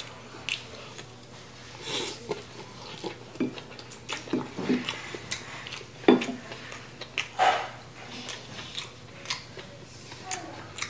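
Close-miked eating: wet chewing and mouth smacks on a mouthful of rice and glass noodles, with a wooden spoon scraping and tapping a ceramic bowl. Irregular clicks and smacks, a few louder ones past the middle.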